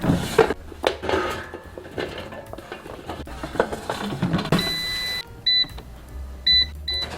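Kitchen utensils and cookware clattering, then a kitchen appliance's electronic beeps: one longer beep followed by three short ones near the end.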